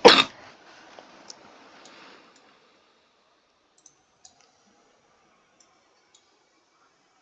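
Computer keyboard keystroke: one loud sharp clack right at the start, followed by a few faint, widely spaced key clicks.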